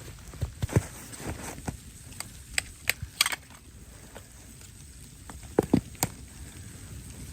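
Irregular knocks, snaps and thumps, like something being handled. The heavier thumps come near the start and again about two-thirds through, with a quick run of sharp clicks around the middle.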